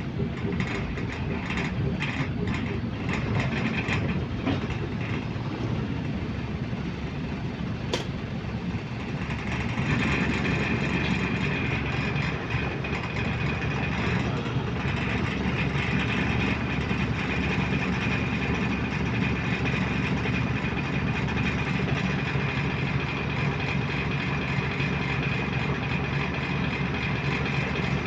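Bus heard from inside while moving: steady engine and road noise, with loose interior rattling over the first several seconds and a sharp click about eight seconds in. From about ten seconds on, a steady high whine joins and the noise grows a little louder.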